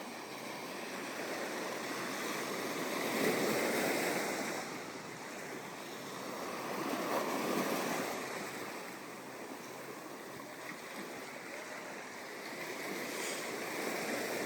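Ocean waves washing onto a sandy beach, the surf swelling and easing in slow surges: two larger waves break a few seconds apart and a smaller one comes in near the end.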